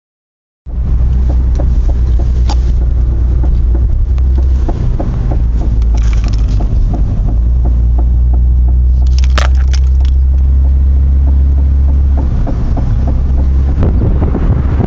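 Car driving over rough bumps: a steady low rumble with repeated short knocks as the wheels hit the bumps, and a louder cluster of sharp knocks a little past the middle. This knocking over bumps is the fault being demonstrated.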